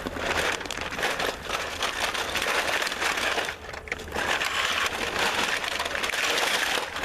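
Plastic bag rustling and crinkling as it is opened and its loose plastic toy pieces are tipped out, with continuous crackling and a brief lull a little past halfway.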